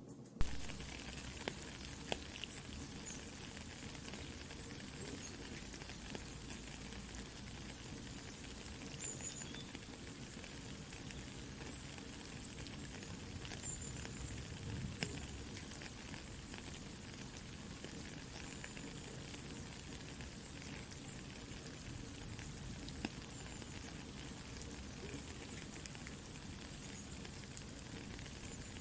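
Soft steady rain mixed with a crackling campfire: an even hiss with scattered small pops and crackles, the sharpest pop about half a second in.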